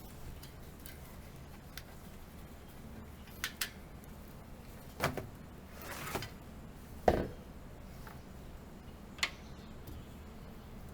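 Bicycle parts and tools being handled during disassembly: a few separate clicks and knocks over faint room tone, the loudest a deeper knock about seven seconds in.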